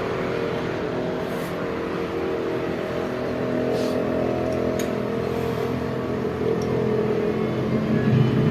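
Massey Ferguson tractor's diesel engine running steadily after gearbox work, picking up slightly near the end, with a few faint clicks over it.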